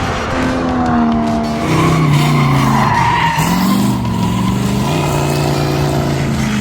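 Race car engine revving hard, its note climbing and dropping several times as it pulls through the gears, with a squeal of tyres in the middle.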